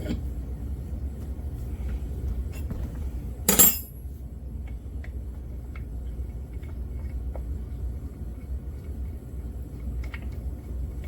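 Metal clinks and light ticks from tools and parts being handled on a motorcycle engine, with one loud sharp knock about a third of the way in, over a steady low hum.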